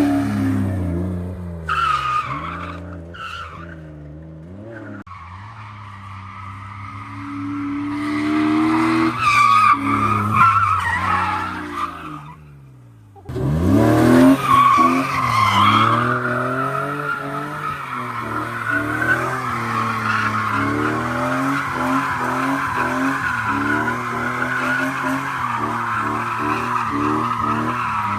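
BMW M54B25 2.5-litre straight-six, breathing through an N54 intake manifold, revving up and down hard during a drift, with tyres squealing. About two thirds of the way through the first half the engine drops away almost to nothing for a moment. It then climbs back and holds high revs with the tyres squealing steadily.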